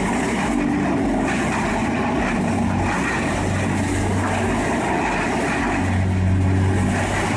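Large diesel-powered tub grinder running steadily under load while it grinds stumps, a low engine hum over dense mechanical noise, swelling briefly about six seconds in.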